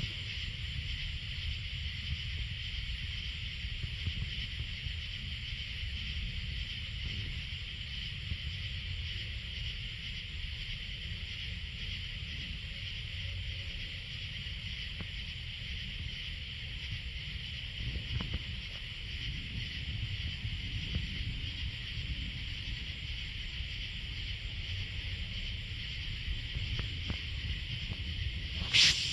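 Steady evening insect chorus, a continuous high-pitched hiss-like buzz, over a steady low rumble. A brief sharp click just before the end.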